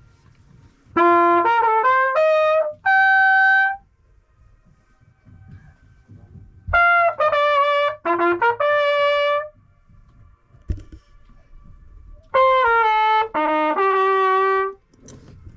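A trumpet plays three short melodic phrases of several notes each, with quiet gaps between them, in an instrumental break of an R&B-style song.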